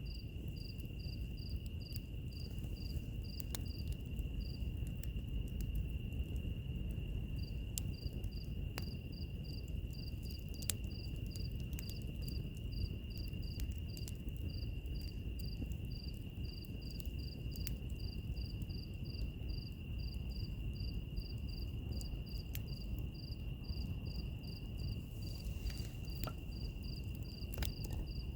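Wood fire crackling with scattered sharp pops over a low steady rumble, mixed with insects: one steady high trill throughout, and a second insect chirping a few times a second, which stops for a few seconds near the start and then resumes.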